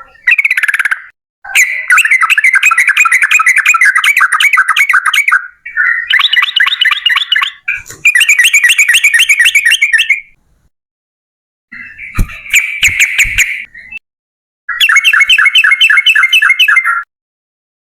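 Yellow-vented bulbul (trucukan) singing its long rolling chatter, in about six bouts of fast repeated notes separated by short pauses. A few sharp knocks come about two-thirds of the way through.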